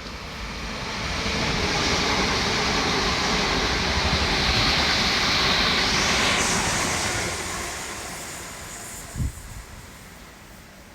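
GWR Class 387 electric multiple unit passing through the station without stopping: a broad rush of wheel and air noise swells over the first couple of seconds, holds, then fades away from about seven seconds in. A short low thump comes about nine seconds in.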